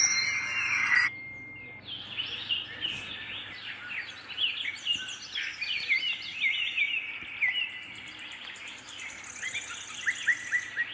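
Birds chirping and calling, many short quick notes overlapping, with a fast high trill near the end. A louder hissing sound with a steady whistle-like tone cuts off about a second in, before the chirping starts.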